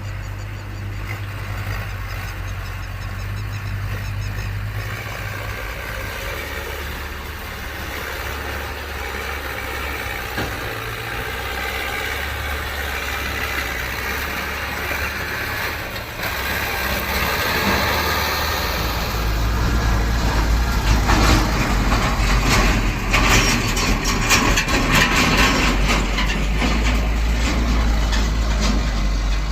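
Tractor diesel engines running steadily. About sixteen seconds in they grow louder and heavier and stay that way, with many short knocks over the last third.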